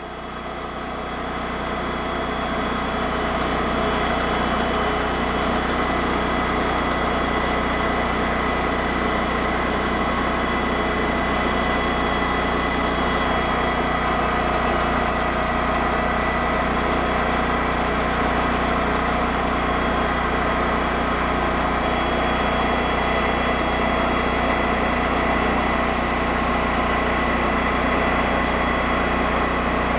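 Timber King 2000 band sawmill's engine running steadily. It swells over the first couple of seconds and then holds an even drone.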